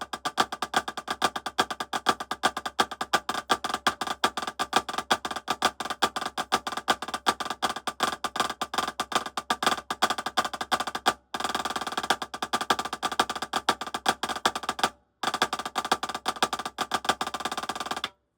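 Snare drum played with sticks in a rudiment exercise: a steady stream of strokes with regular louder accents. About two-thirds of the way through it breaks into a very fast, dense roll, pauses for a moment, resumes, and cuts off just before the end.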